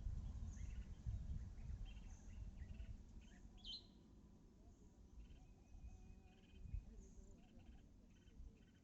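Faint, scattered bird chirps, one louder about three and a half seconds in and a run of short repeated ones later, over a low rumble that fades away.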